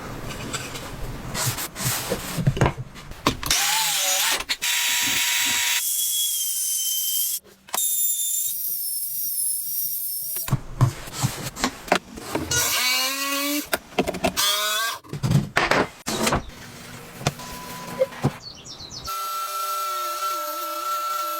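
Workshop power-tool sounds, mostly a drill running, heard in short segments that cut abruptly from one to the next, some with a steady whine and one with a pitch rising and falling as the tool speeds up and slows down.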